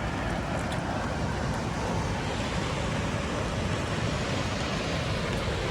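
Steady rushing noise of a waterfall's falling water, with wind on the microphone.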